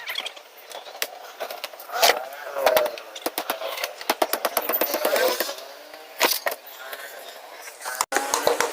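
Repeated metallic knocks and clanks as a refrigerator is taken apart for scrap, with voices in the background.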